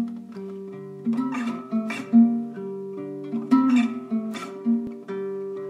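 Acoustic guitar playing an introduction of plucked chord notes, each attack ringing on over a sustained low note.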